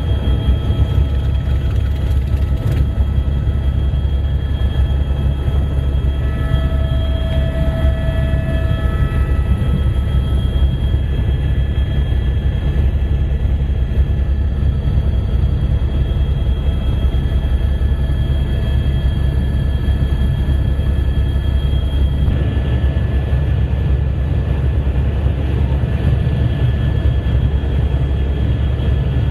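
Helicopter in flight: a steady, loud low drone with several steady high-pitched tones above it.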